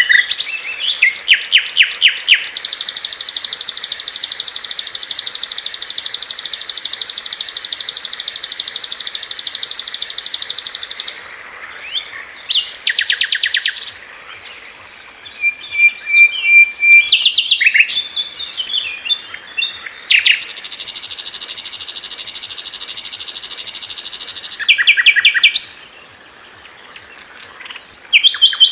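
Recorded song of a sikatan londo (a flycatcher), harsh and clear: fast, high rattling trills, two of them held for several seconds each, broken up by short rapid note series and chatters.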